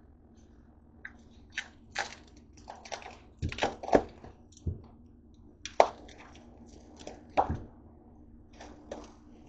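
Pork chops being handled in crackly packaging: irregular crinkling and cracking with several sharp knocks, the loudest about four, six and seven seconds in.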